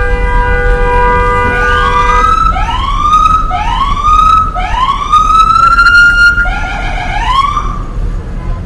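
Emergency vehicle siren on a city street: a long steady multi-tone horn blast, then the siren in repeated rising sweeps, each climbing and levelling off, about once a second. Heavy traffic rumble underneath.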